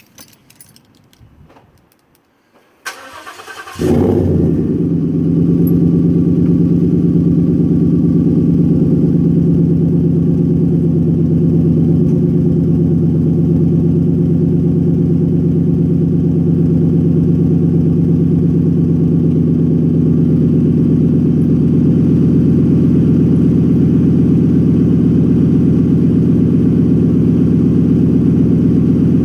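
2014 Ford F-150's 5.0 L V8 with a Roush aftermarket exhaust starting: a few faint clicks, a short crank, then the engine catches about four seconds in with a loud flare and settles into a steady, deep idle.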